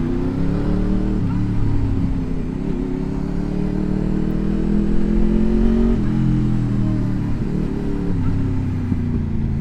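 Honda VFR motorcycle's V4 engine accelerating hard through the gears, its pitch climbing and dropping back at each upshift, then easing off about six seconds in.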